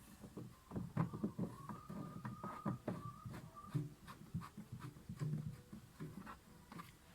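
Irregular light clicks, taps and knocks of washing machine drain valve parts being handled and fitted together by hand.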